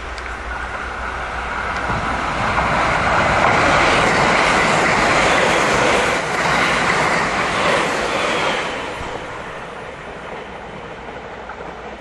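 A 681/683-series limited express electric train passing at speed: the noise builds from about two seconds in, is loudest through the middle, and fades away after about nine seconds.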